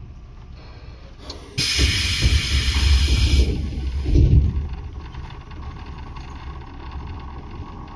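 Tobu 10030 series electric train running, heard inside the car near its line breaker: a steady rumble, broken about a second and a half in by a sudden loud hiss that lasts about two seconds. A heavier rumble runs with it before the running sound settles back.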